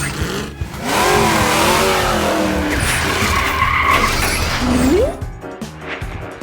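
Cartoon vehicle sound effect: a truck engine revving with wavering pitch and tyres skidding, loud for about four seconds and ending in a quick rising whine. Background music follows.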